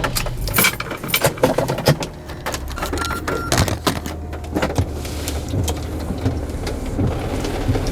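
A car's engine running steadily, heard from inside the cabin, with scattered clicks and ticks over it and two brief high beeps about three seconds in.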